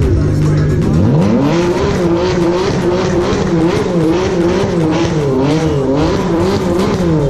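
Ferrari 599's V12 engine revved up from idle about a second in and held at high revs, its pitch wavering up and down with repeated throttle blips, then dropping back toward idle at the very end.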